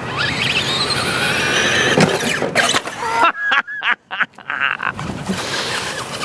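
Electric RC stadium truck running with its 15-turn motor whining, the whine rising in pitch as the truck accelerates in the first second, along with tyre noise. Around the middle it comes in short, choppy spurts with brief gaps as the throttle is let off and on.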